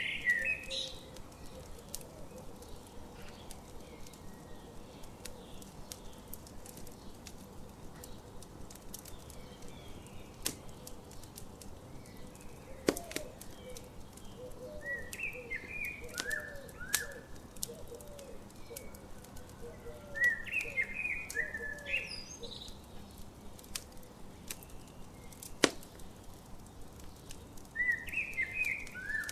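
Campfire crackling, with scattered sharp pops over a faint steady hiss, under morning birdsong: short bursts of song come several times, along with a low, repeated call.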